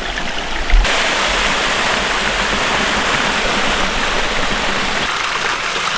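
Steady rushing of fast-flowing water in a creek. Just under a second in there is a low thump on the microphone, and the water then sounds fuller.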